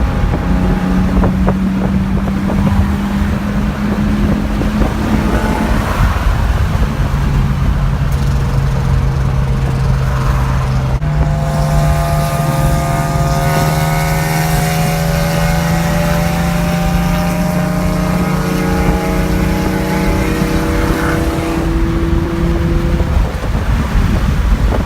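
Car driving on the road: a steady engine note over heavy road and wind rumble. After an edit about 11 seconds in, the engine tones climb slowly in pitch as the car gathers speed.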